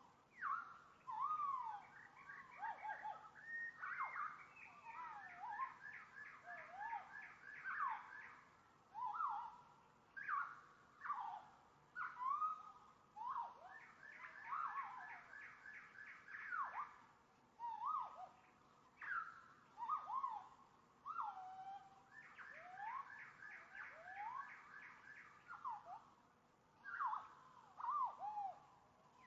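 Songbird singing: a continuous string of whistled notes that slide up and down, broken three times by trills of rapidly repeated notes lasting a few seconds.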